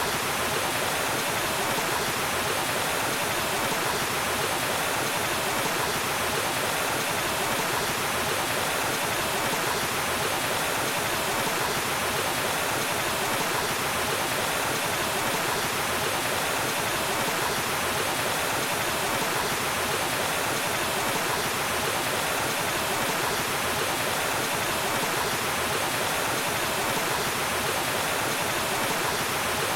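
Waterfall: steady, even rushing of falling water, unbroken throughout.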